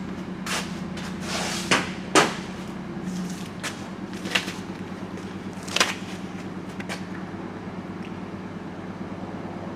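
A handful of sharp knocks and clicks, about five in the first six seconds, over a steady low hum.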